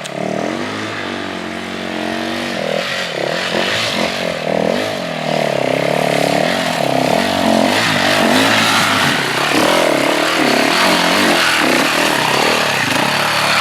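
Motorcycle engine running, its pitch rising and falling with the throttle and growing louder over the first few seconds.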